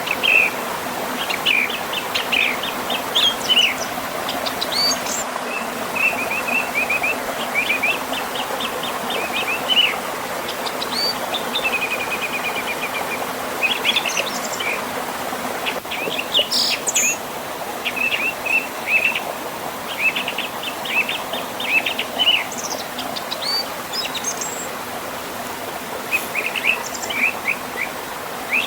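Songbirds chirping in quick runs of short high notes, again and again, over the steady rush of a river and small waterfall.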